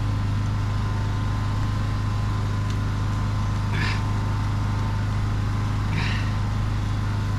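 Engine of a drain-cleaning unit running steadily at a constant speed, with a strong low hum. Two short hisses come in about four and six seconds in.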